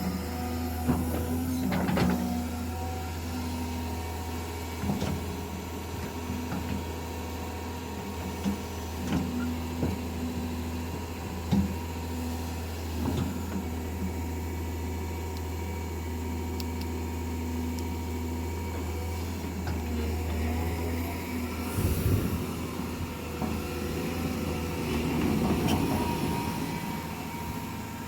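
A heavy machine's diesel engine running steadily, with scattered clunks and knocks. About 22 seconds in the steady hum breaks off and gives way to a rougher, noisier running sound.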